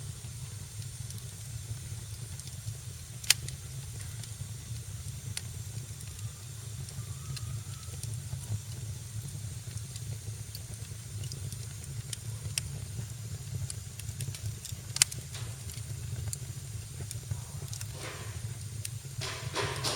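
Fire burning in a fireplace: a steady low rumble and hiss of the flames with small crackles throughout. Two sharp pops stand out, about three seconds in and again around fifteen seconds, and there is a rush of hissing near the end.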